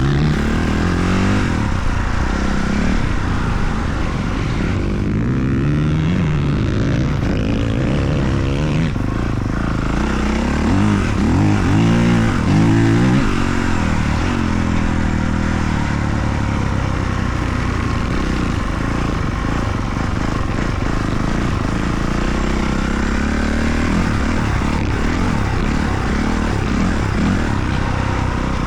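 Motocross dirt bike engines revving up and down as they are ridden around the track, the revs rising and falling repeatedly, loudest about eleven to thirteen seconds in.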